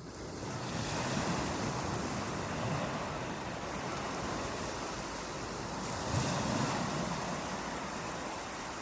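Steady rushing water fading up from silence at the start, then running on evenly with gentle swells and a low rumble.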